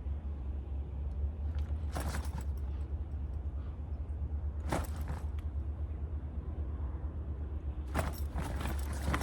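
Gale-force wind rumbling steadily on the microphone. Brief rustling, scuffling bursts come about two seconds in, near five seconds and near the end, as a landed carp is handled and weighed.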